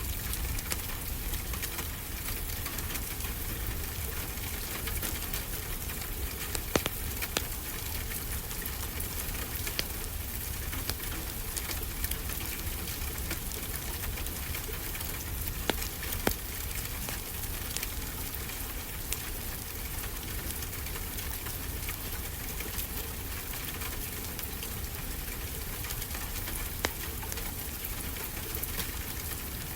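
Fireplace crackling steadily, with a handful of louder sharp pops scattered through, over a constant wash of ocean-wave noise with a low rumble.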